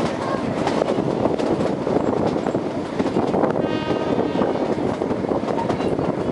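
Kalka–Shimla narrow-gauge toy train running, heard from inside a carriage: a steady rattling rumble of wheels and coaches. A brief high, steady tone lasts about a second midway through.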